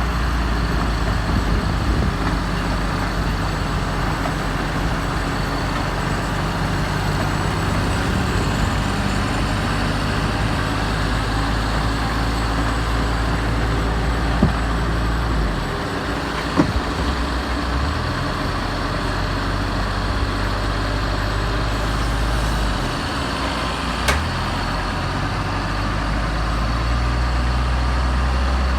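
Tractor engine running steadily, its low note dropping briefly twice, with a few sharp knocks.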